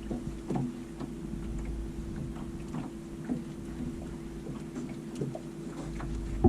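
A boat motor running steadily with an even hum, with wind buffeting the microphone and a few light knocks scattered throughout.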